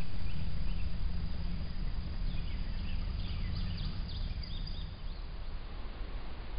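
Faint bird chirps, a scatter of short quick calls in the middle, over a steady low rumble from the trail camera's microphone.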